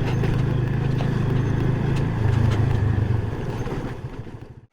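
Yamaha FZ motorcycle engine running steadily while riding a rough off-road track, with road noise and occasional sharp knocks from the bumpy ground. The sound fades out near the end.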